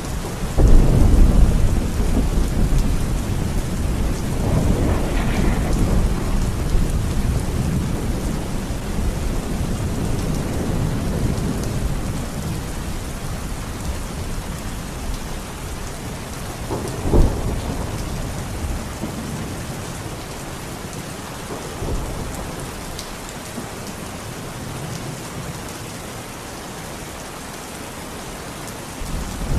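Steady rain falling, with rolls of thunder. A loud low rumble comes about half a second in and another follows a few seconds later. A sharper clap comes a little past the middle, and the rumbling dies down toward the end.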